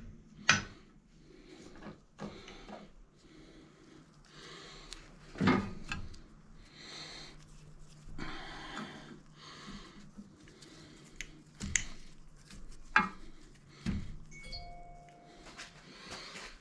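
Scattered knocks and clatter of metal engine parts being handled and set down, with soft rustling between them.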